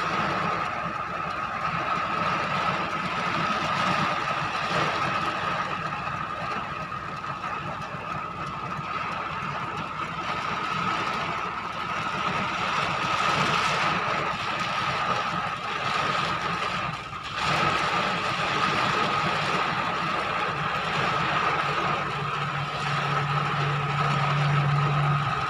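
Storm rain and strong wind as a steady rushing noise, with a steady high-pitched whine throughout and a low hum joining near the end.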